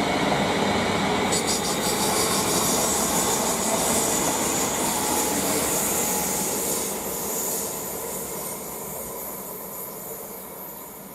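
Two coupled Class 350 Desiro electric multiple units pulling away along the track, wheels on the rails and the motors humming. The sound is steady at first and then fades away through the second half as the train recedes.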